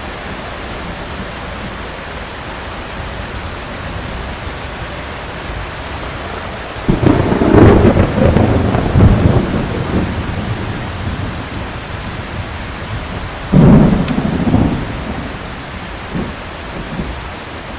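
Heavy rain falling steadily, broken by two sudden claps of thunder: a loud one about seven seconds in that rumbles on for a few seconds, and a shorter one a little before fourteen seconds.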